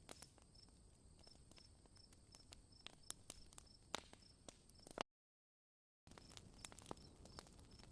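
Faint campfire crackling: scattered sharp wood pops over a low hiss, with a soft high chirping pulse about three times a second like crickets at night. The sound cuts out completely for about a second just past the middle.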